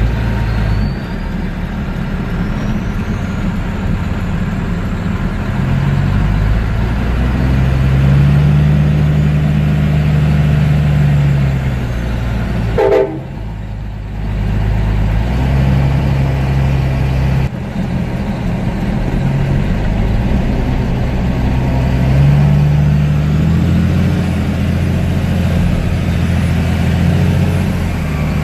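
Heavy diesel truck engines working hard off-road, the engine note repeatedly rising and falling as they rev and change gear. About 13 s in the sound breaks off briefly and then the engine picks up again.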